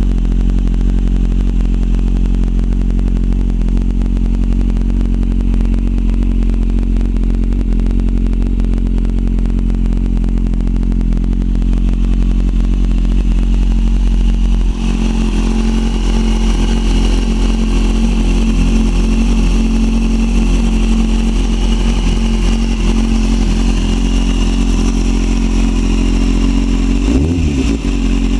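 Kawasaki Z750's inline-four engine idling steadily through a Huzar aftermarket exhaust, then revved with throttle blips near the end.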